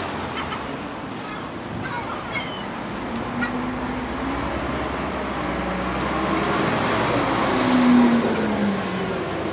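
Road traffic, with a vehicle passing that grows louder to a peak about eight seconds in, its engine note falling as it goes by. Faint gull calls are heard about two seconds in.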